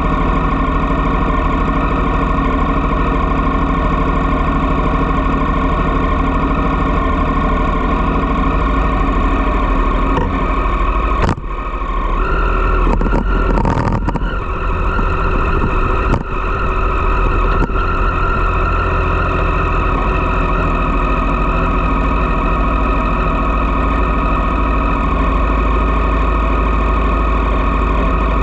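Triumph Street Triple's three-cylinder engine idling through a Dominator GP aftermarket exhaust, a steady running note. About halfway it is broken for a few seconds by a couple of sharp knocks and brief dips in the sound before the steady idle returns.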